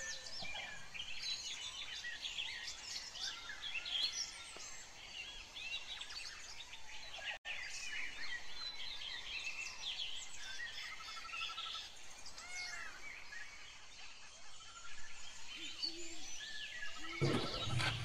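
Many small birds chirping and whistling in quick, overlapping calls. Near the end a low rushing noise comes up.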